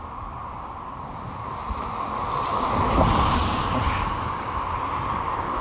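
A vehicle passing on a wet road, its tyres hissing on the water as it swells to a peak about three seconds in and then slowly fades.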